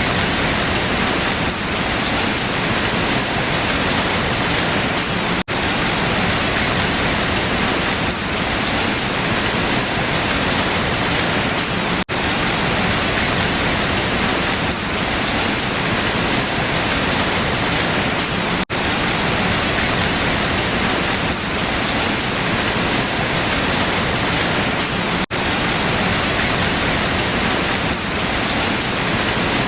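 Steady rain falling on leaves, a dense even hiss of drops. The sound cuts out for an instant at regular intervals, about every six and a half seconds.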